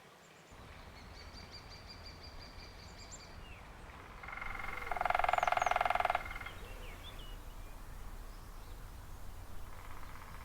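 Woodpecker drumming: one loud, very fast roll of about two seconds near the middle, and a fainter roll near the end, among small birds chirping.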